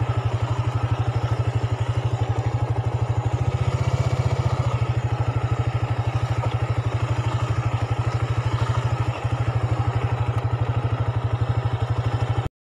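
Sport motorcycle engine idling steadily while the bike stands still, a regular low throb. The sound cuts off suddenly near the end.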